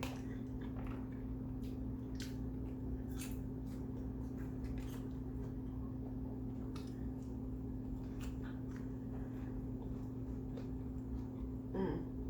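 Close-up chewing of kimbap, with irregular wet mouth clicks and smacks over a steady low electrical hum, and a contented "mmm" near the end.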